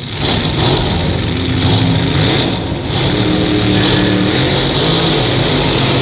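1969 Oldsmobile F85's engine running, its pitch wavering, with a brief dip in level about two and a half seconds in.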